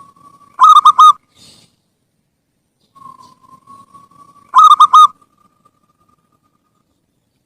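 Zebra dove (perkutut) cooing: two song phrases about four seconds apart, each a faint drawn-out note followed by three quick, loud coos.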